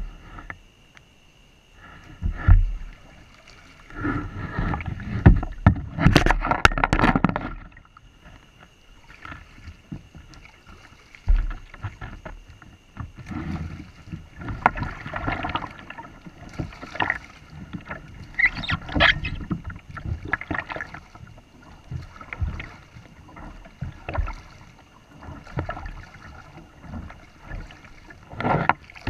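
Kayak on the water: irregular splashes and knocks against the hull, loudest in a run of bursts a few seconds in. Under them runs a steady high-pitched whine.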